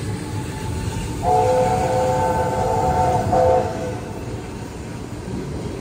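Passenger coaches rolling past with a steady low rumble. About a second in, a train horn sounds a multi-tone chord for about two and a half seconds, with a short break just before it stops.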